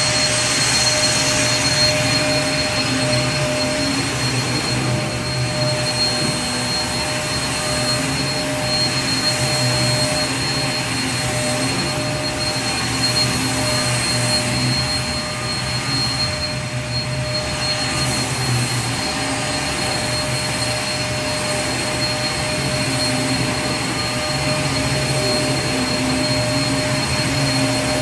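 Vacuum cleaner motor running steadily, a constant rushing hiss with a steady high whine over it.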